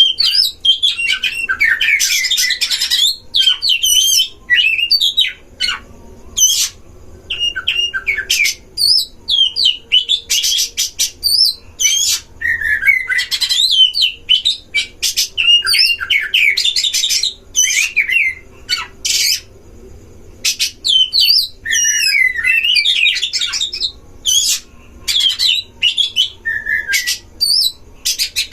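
Oriental magpie-robins (kacer) in an agitated singing duel: rapid, varied whistled phrases that sweep up and down, mixed with harsh rasping, clicking notes, in runs of several seconds with short pauses between.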